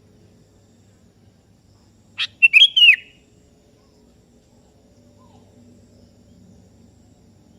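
Sooty-headed bulbul (kutilang) giving one short call of three or four quick notes about two seconds in, lasting under a second, over a faint low hum.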